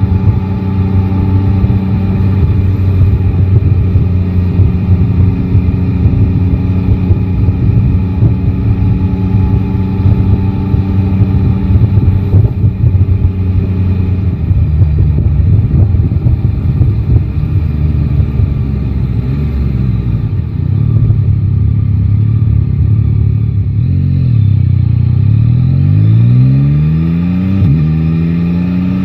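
Yamaha Tracer 9 GT's inline-three engine running at a steady pace for much of the time, then near the end dipping and rising in pitch twice as the bike pulls away and shifts up a gear.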